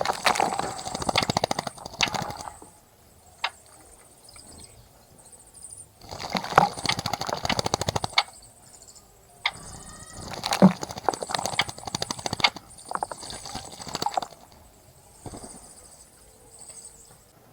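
A small bird bathing in a shallow bird bath, splashing water with rapid wing flutters in three bouts, the longest near the end.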